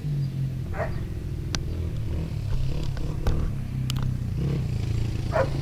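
Honda dirt bike engine running steadily at low revs, near idle. A dog barks once about a second in and twice near the end, with a few light clicks between.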